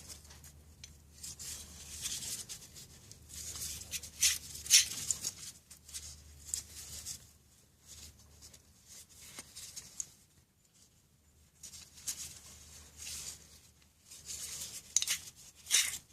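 Irregular scratchy rasps and light scraping from metal parts and hand tools being worked on a bike-axle bearing assembly, as the axle nut is adjusted to set the bearing preload. A faint low hum runs underneath.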